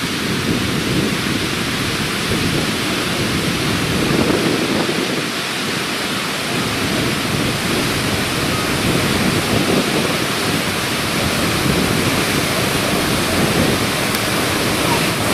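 Ouzoud Falls, a tall waterfall, pouring with a loud, steady rush of falling water that keeps the same level throughout.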